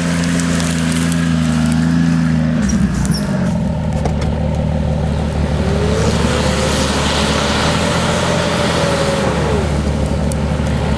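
Off-road 4x4's engine running steadily; about three seconds in its note changes abruptly, then holds steady, with a faint whine rising and falling in pitch for a few seconds near the middle.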